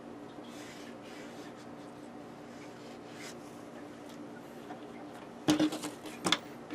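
A low steady hum with faint scratching, then two short, sharp scratchy sounds near the end, the second about a second after the first.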